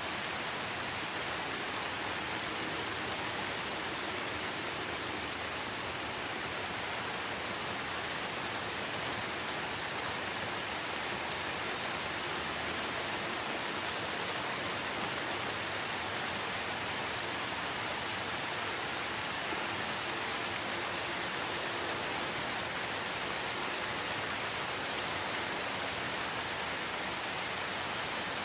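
Steady, even rain falling in a rainforest, a constant hiss of drops with a few faint individual drop ticks.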